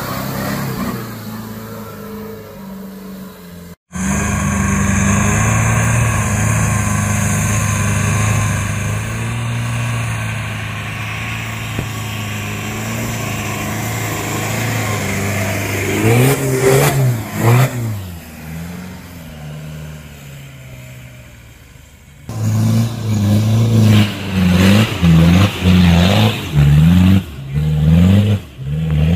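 4x4 off-road vehicle engines running and revving, the pitch rising and falling in repeated bursts in the last several seconds. The sound cuts abruptly twice, about four seconds in and about twenty-two seconds in, as one shot gives way to the next.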